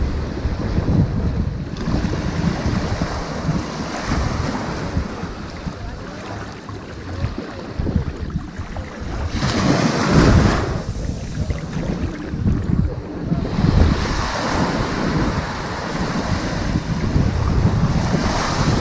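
Ocean waves washing up on a sandy beach, with a louder rush of surf about halfway through and another near the end. Wind buffets the microphone underneath as a low rumble.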